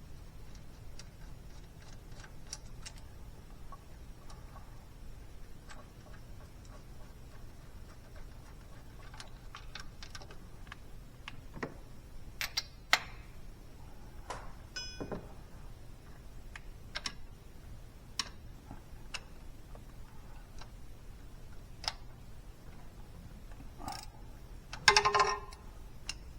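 Scattered light clicks and taps over a low steady hum, with a sharp clink about halfway through and a short, loud ringing metallic clank near the end.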